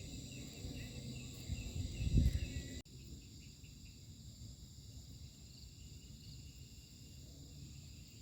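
Night insects, crickets among them, keep up a steady chorus of high trilling tones with a pulsing chirp over it. In the first third a low rumbling handling noise peaks in a thump, then cuts off abruptly, leaving only the insect chorus.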